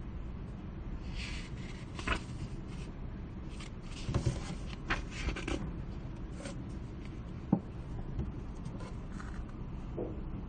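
Library room ambience: a steady low hum with scattered small knocks and clicks and a few brief rustles.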